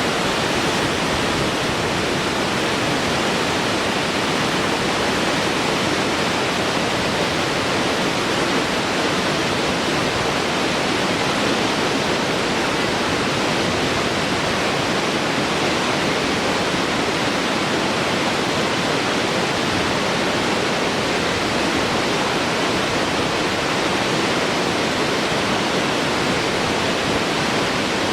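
Waterfall: a steady, loud rush of falling water, even from low to high pitches, with no change throughout.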